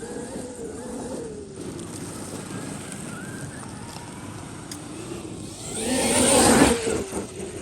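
Traxxas XRT electric RC monster truck running, its brushless motor and drivetrain whining and wavering in pitch. About six seconds in there is a loud, brief rush of motor whine and tyre noise as it speeds up.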